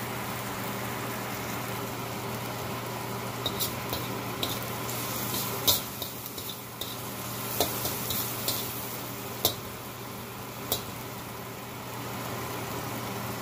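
Onion and spice masala sizzling steadily in oil in a stainless steel wok, with a scattering of sharp pops and a steady low hum underneath. The spices are being fried until the oil separates out of the masala.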